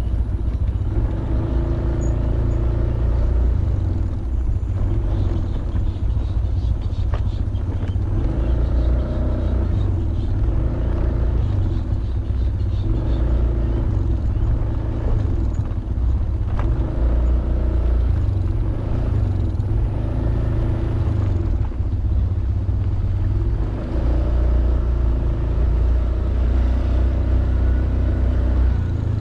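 Honda Beat 110cc scooter's single-cylinder engine running while riding, over a steady low rumble; the engine note rises and falls a little several times.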